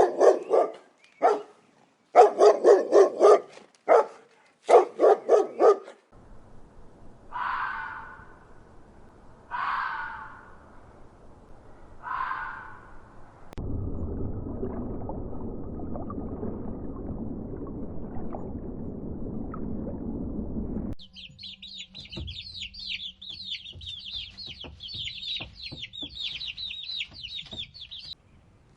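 A run of poultry sound clips, one after another. First come groups of short, quick, pitched calls. Then three separate calls about two and a half seconds apart, a stretch of hissy background noise, and finally a rapid stream of high, thin peeping.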